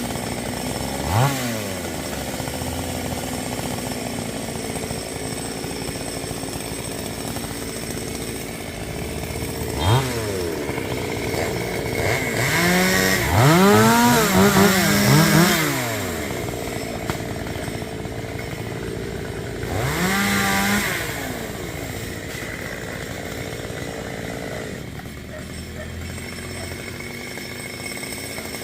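Chainsaw engine idling, revved up and back down sharply several times, with the revs held high for a few seconds around the middle and again briefly later.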